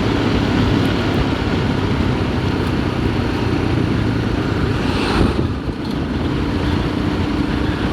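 Royal Enfield Himalayan single-cylinder motorcycle engine running steadily while riding, mixed with wind and tyre noise. A brief surge of hiss comes about five seconds in.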